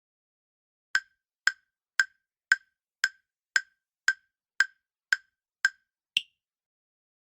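Quiz countdown timer sound effect: ten identical wood-block-like ticks about two a second, then a single higher-pitched click to close the count.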